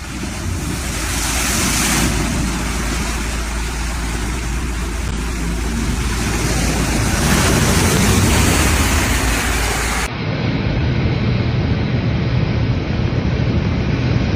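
Storm wind buffeting the microphone over heavy surf, a loud steady rushing that swells and eases. About ten seconds in the sound changes abruptly and loses its hiss.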